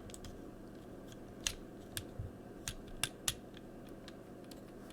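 Plastic Transformers Hound action figure being handled: a few sharp, light clicks of hard plastic parts knocking together.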